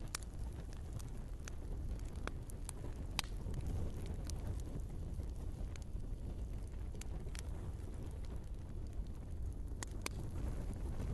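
Wood fire burning in a fireplace: irregular sharp crackles and pops from the logs over a low, steady rumble of the flames.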